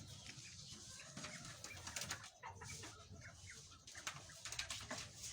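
Birds in a pen: faint calls, with scattered clicks, rustling and flapping.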